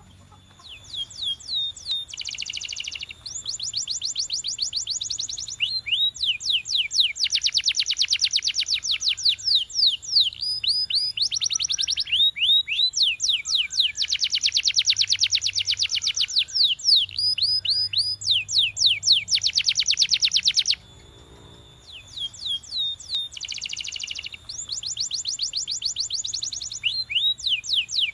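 Canary singing: long rolling trills of fast, repeated down-sweeping notes in phrases, with a short pause about two-thirds of the way through.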